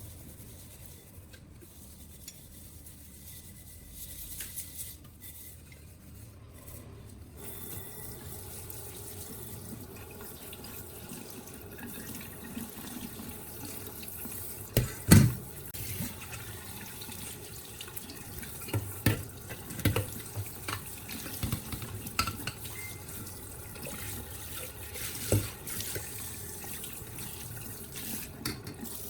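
Water running steadily, starting about seven seconds in, with a few sharp knocks over it; the loudest knock comes about halfway through.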